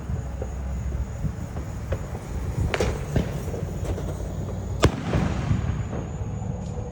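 Fireworks going off: a scattering of sharp pops and bangs, with two bigger ones about three seconds in and the loudest bang about five seconds in, which trails off briefly.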